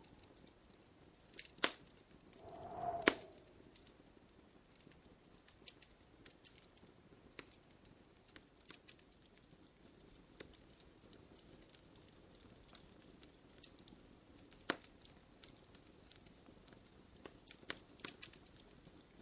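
Wood fire crackling in a fireplace: irregular small crackles with a few sharp pops, the loudest about a second and a half, three seconds and fifteen seconds in. A short low hoot sounds about three seconds in.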